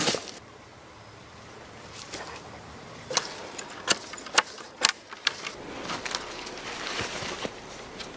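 A handful of sharp cracks of dry wood or twigs, about half a second apart near the middle, over a faint forest background.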